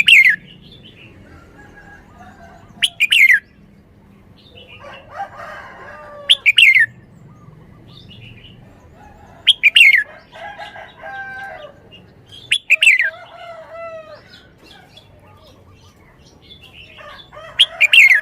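Red-whiskered bulbul singing: short, loud phrases that drop in pitch, repeated every three seconds or so, with softer warbling notes between them.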